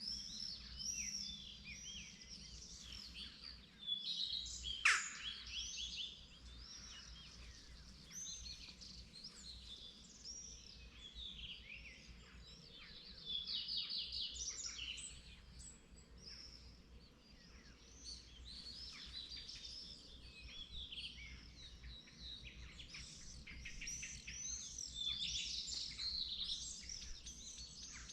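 Dawn chorus of many songbirds, with short chirps and song phrases overlapping continuously. A single sharp click about five seconds in is the loudest moment, over a faint steady low hum.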